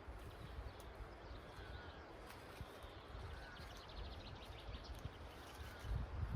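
Quiet rural outdoor ambience: faint, scattered bird chirps and a brief rapid trill over a low wind rumble. A louder rustling comes in near the end.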